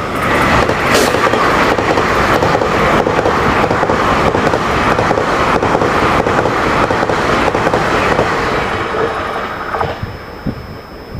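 A train passing close by on the tracks, a loud steady rush of wheels on rail with rapid clatter, dying away about ten seconds in.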